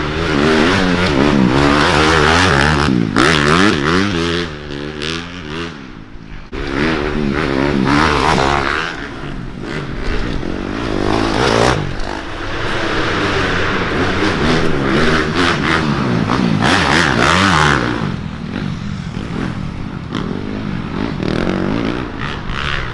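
Several dirt bike engines revving up and down as the bikes race past, their pitches rising and falling and overlapping, with a short lull about six seconds in.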